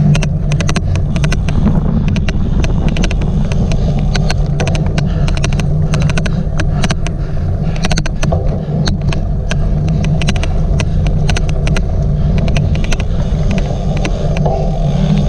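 Riding a cyclocross bike on course: a steady low rumble of wind and tyres, with an odd clicking noise of many sharp, irregular clicks, several a second.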